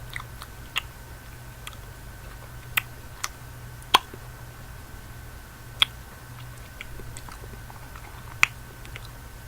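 Close-miked mouth sounds of someone chewing candy: scattered sharp, wet clicks and smacks, about six loud ones, over a steady low hum and a faint steady high tone.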